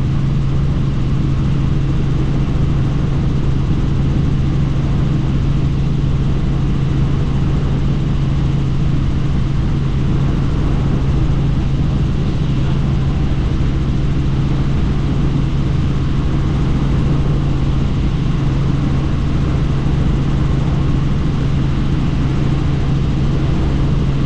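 Helicopter in flight: a steady, unchanging drone of engine and rotors with one strong deep hum.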